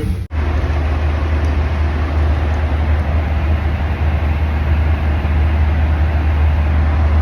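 Steady airliner cabin noise in flight: a constant low drone with an even rush of air noise over it.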